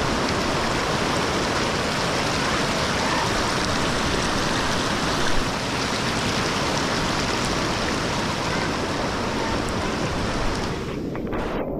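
Steady, loud rush of water, like floodwater or heavy rain. The high hiss drops away near the end.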